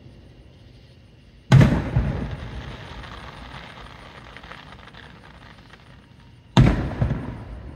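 Two aerial firework shells bursting about five seconds apart. Each is a sudden loud boom with a smaller report just after it and an echo that fades over the next few seconds.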